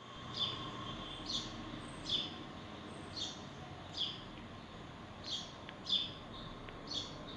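A bird repeating a short chirp that falls in pitch, about once a second.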